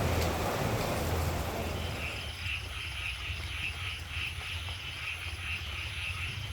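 A rushing noise fades over the first two seconds. Then a night chorus of calling animals takes over, a steady pulsing call repeating about three times a second, with a low hum underneath.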